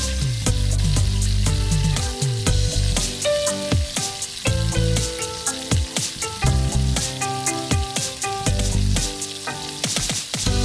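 Food frying in a pan, sizzling with many small crackles, under background music with held notes and a bass line.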